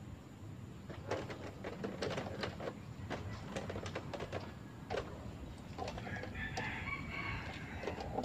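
Birds calling: a string of short, sharp clucking calls, with busier chirping from about six seconds in.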